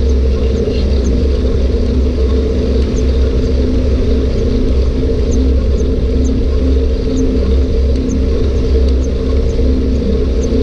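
Steady rumble and hum of riding a bike, with wind pressing on the microphone and a constant low drone throughout.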